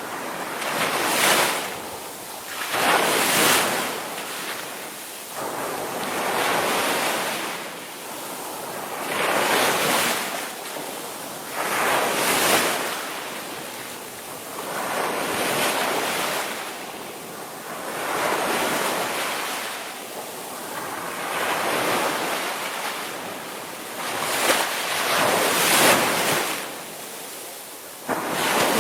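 Ocean surf: waves breaking and washing in, one surge after another every two to three seconds.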